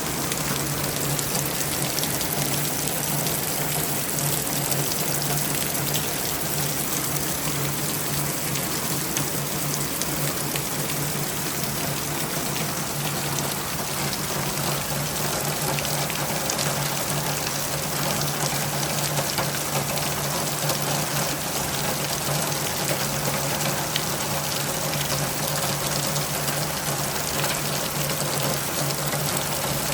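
Steady rain falling, a continuous hiss with many fine drop ticks, over a steady low hum.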